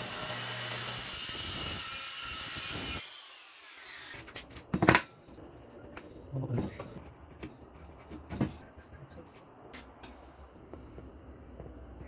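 Power tool running on wood, then switched off about three seconds in and winding down. A few sharp knocks follow as the wood is handled, the loudest about five seconds in.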